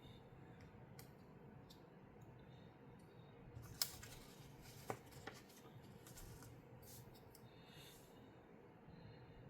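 Plastic LEGO pieces being handled and pressed together: scattered faint clicks and rustling, with two sharper clicks about four and five seconds in.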